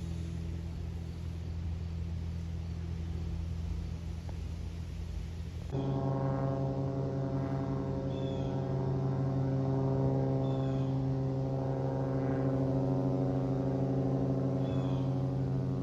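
Cessna 182B Skylane's propeller and six-cylinder piston engine droning steadily overhead. About six seconds in the tone turns suddenly louder and fuller.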